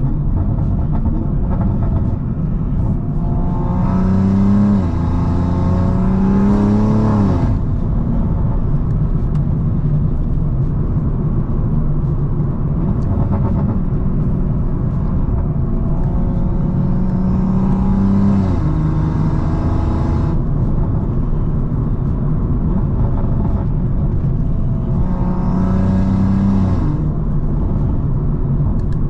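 BMW M340i's tuned turbocharged B58 inline-six under hard acceleration, three times: the engine pitch climbs, and in the first pull it drops once at an upshift about 5 seconds in, then climbs again, with a hiss over the top. Between the pulls the engine drones steadily at cruise.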